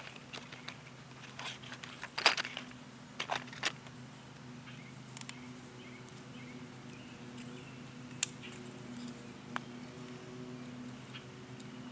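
Scattered light rustles and clicks of potato plant foliage being handled, the busiest stretch about two to four seconds in, over a steady low hum.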